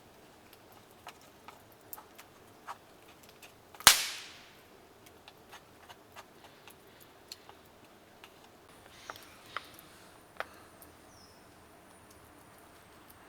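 Wood fire crackling: scattered small pops and clicks, with one loud sharp crack about four seconds in.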